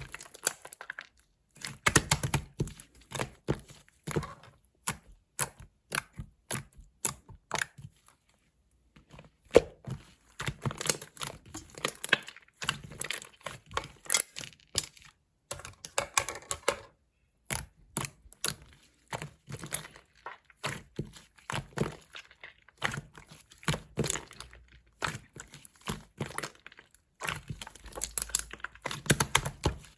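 White clear slime being pressed, stretched and folded by hand, giving off sticky clicks and little air-bubble pops in quick, irregular clusters, with a couple of short pauses.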